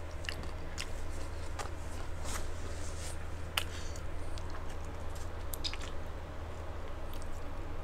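Close-up mouth sounds of a person chewing food, with scattered small crunches and wet clicks, picked up by a clip-on microphone over a steady low hum.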